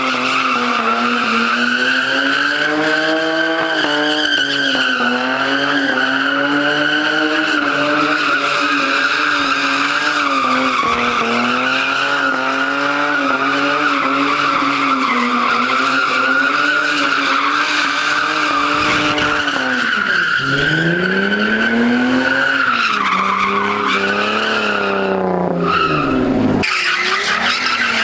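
A car drifting with its tyres screeching continuously and its engine held at high revs, the engine note wavering. The revs dip and climb back once, then drop sharply near the end before picking up again.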